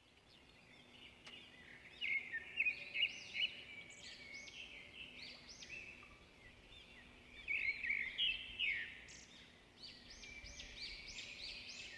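Small birds chirping: many short rising-and-falling chirps coming in quick runs, over a faint steady background hum.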